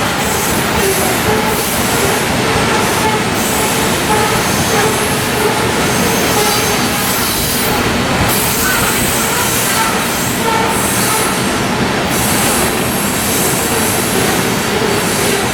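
Freight train of coal hopper cars rolling past: steady, loud steel-wheel-on-rail noise with faint wheel squeal coming and going.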